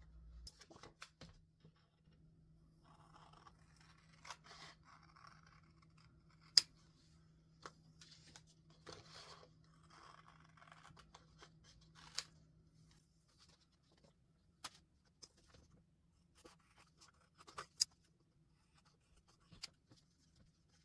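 Scissors cutting paper: a few short stretches of cutting, with sharp small clicks scattered between them.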